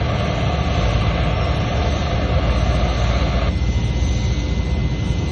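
TIG welding arc hissing over a steady low rumble. The arc hiss cuts off suddenly about three and a half seconds in, and the rumble carries on.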